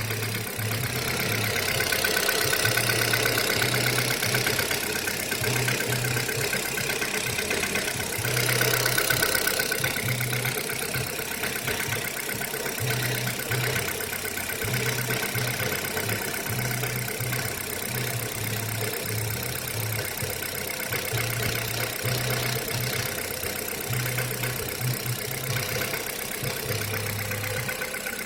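Kia Rio 3 petrol engine idling from a cold start, with the knock that the owner hears when the engine is cold. It gets louder for a couple of seconds twice, about two and eight seconds in.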